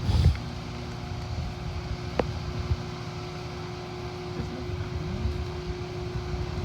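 Chamberlain 1/2 HP chain-drive garage door opener running as it moves the door, a steady motor hum. A brief thump right at the start and a sharp click about two seconds in.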